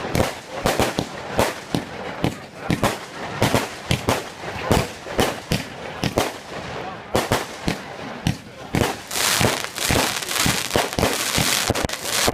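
Fireworks going off in a rapid string of sharp bangs, several a second. From about nine seconds in they give way to a dense, continuous crackling.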